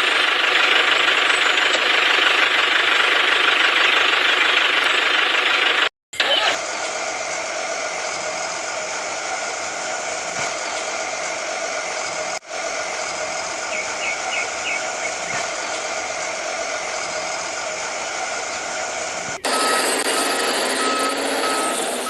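Truck engine running in several edited segments that cut abruptly, steady with no deep rumble. Near the end a reversing beeper starts sounding in a regular row of short beeps.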